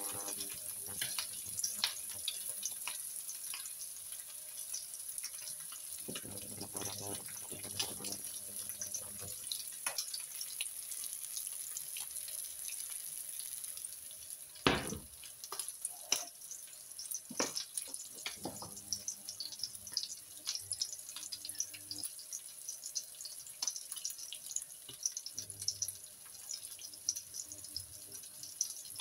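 Beef burger patties and chopped onion sizzling and crackling in a frying pan, a steady hiss with constant small pops. A wooden spatula knocks and scrapes against the pan now and then, the sharpest knock about halfway through.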